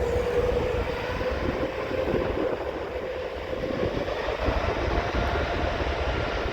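Airbus A380 jet engines at takeoff power: a steady roar and low rumble under a tone that slowly rises in pitch. For so big an airliner it is quiet.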